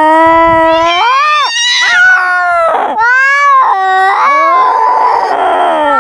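Cat yowling: loud, long, drawn-out caterwauls that waver up and down in pitch, turning rougher and hissier near the end. This is the threatening yowl of a cat in a territorial standoff.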